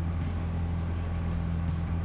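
Motorboat engine running steadily underway, an even low drone with the rush of air and water over it.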